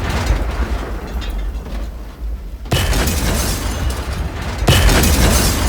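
Loud, dense rumbling noise, deep at the bottom with a hiss on top, that jumps suddenly louder about three seconds in and again near five seconds.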